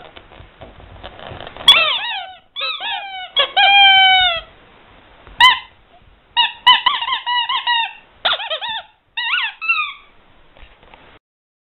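Rubber squeaky toy squeezed repeatedly: quick bursts of short squeaks, each falling in pitch, with one longer drawn-out squeak about four seconds in.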